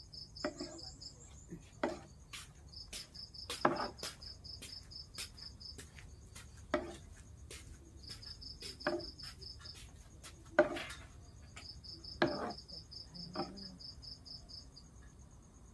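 An insect, likely a cricket, chirping in repeated trains of rapid high pulses, each train lasting about a second and a half with short pauses between. Irregular sharp clicks and knocks, about a dozen, sound over it and are the loudest sounds.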